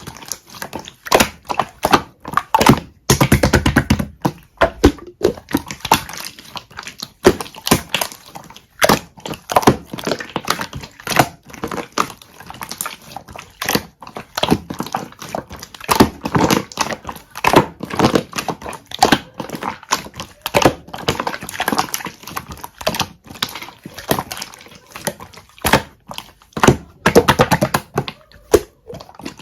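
Hands squishing and pressing a soft, sticky melted honey-jelly slime: a dense run of wet clicks and small pops, with louder squelches every second or so.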